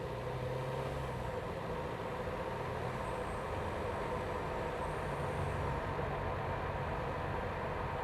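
BMW B48 2.0-litre turbocharged four-cylinder engine running steadily, heard through a microphone inside the engine bay. A faint high whine rises and falls between about three and six seconds in.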